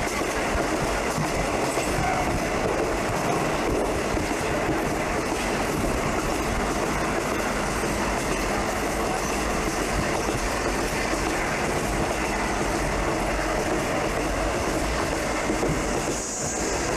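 Train running along the track: a steady rumble with the clickety-clack of wheels over rail joints, and a brief high hiss near the end.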